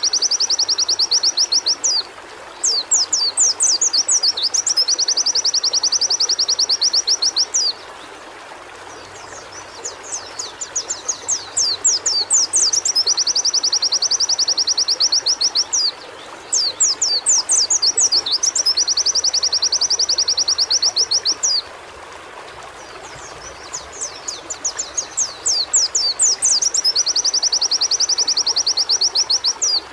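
White-eye (pleci) singing in repeated bouts, each opening with a few quick sliding high notes and running into a fast, even trill several seconds long, with short pauses between bouts. A steady hiss runs underneath throughout.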